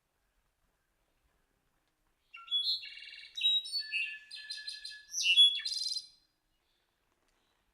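A songbird singing one varied phrase of about four seconds: a quick run of different high notes, trills and rattles, beginning a couple of seconds in.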